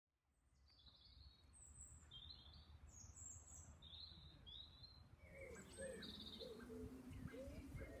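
Faint birdsong: a run of short, high chirping phrases, giving way about two-thirds of the way in to lower, repeated notes.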